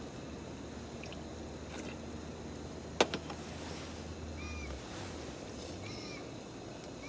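A sharp knock about three seconds in, then a bird's short, high call notes repeating a few times near the end. This is the 'ken-ken' calling that the camper links to a pheasant.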